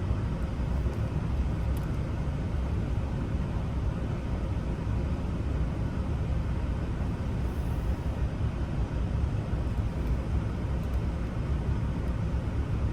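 Steady low rumble, with a few faint light clicks over it.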